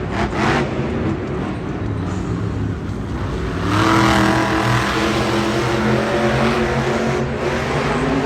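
Monster truck engine running hard and revving in a stadium, growing louder about four seconds in.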